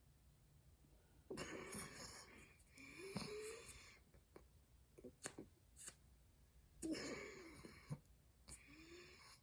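Cornstarch being crunched and chewed close to the microphone. It comes in two noisy spells of a second or two, near the start and near the end, with sharp clicks between them.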